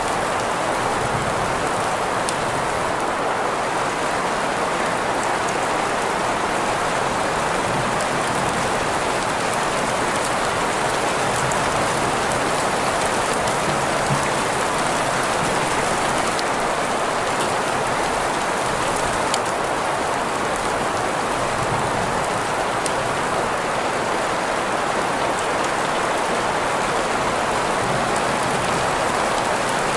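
Steady rain-and-green-noise sleep sound: an even, unchanging hiss strongest in the middle range, with faint drop ticks now and then.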